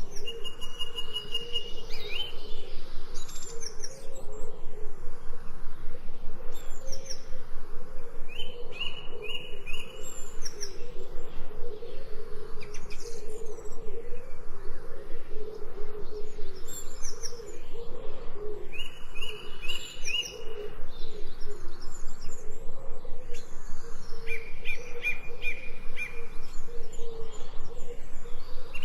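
Several birds chirping and calling: short trills of quickly repeated high notes and falling whistles every few seconds, over a steady low pulsing background chorus.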